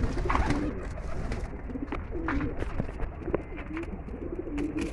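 Domestic pigeons cooing, several low, wavering coos repeating and overlapping, with a few sharp clicks among them.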